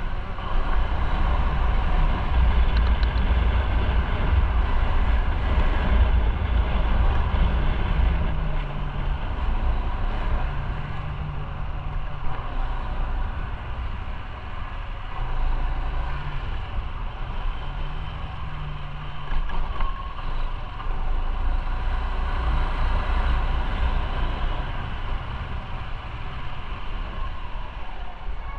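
Motorcycle engine running on the move, its pitch stepping up and down with throttle and speed changes, over a steady low rumble of road and wind.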